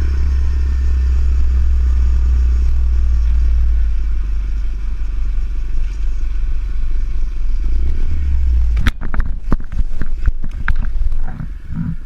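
Motorcycle riding with a loud, steady low rumble, then about nine seconds in a quick series of sharp knocks and clattering.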